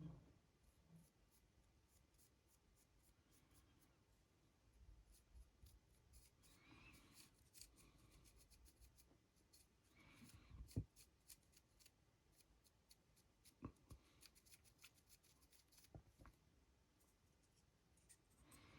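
Faint, scratchy brushing of a paintbrush working grey paint over a 3D-printed model, with many small ticks and a few soft knocks, the loudest about halfway through.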